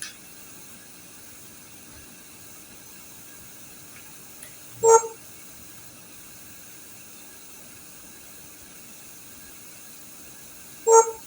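A short, loud pitched beep repeating about every six seconds, twice in this stretch, about five seconds in and near the end, over a faint steady hiss.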